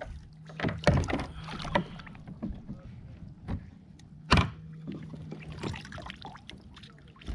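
Knocks and clunks on a plastic fishing kayak as gear and catch are handled aboard, the loudest about a second in and about four and a half seconds in, over a faint steady low hum.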